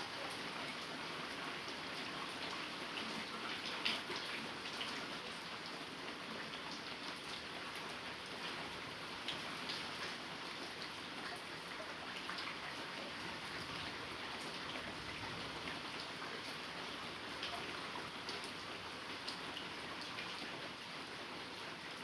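Heavy rain falling steadily, with sharper individual drops hitting now and then.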